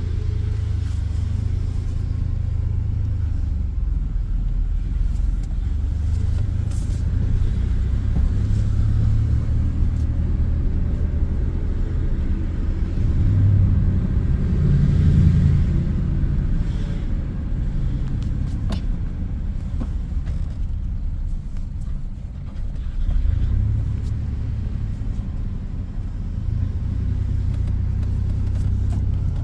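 Chevy S10's 4.3 Vortec V6, fitted with Holley Sniper fuel injection, running cold on fuel enrichment as the truck drives, heard from inside the cab. The engine note swells about halfway through and eases off a few seconds later.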